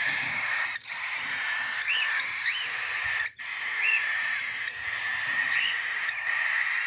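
Hungry baby parakeet chicks begging for food: a continuous raspy hissing with short chirps about once a second.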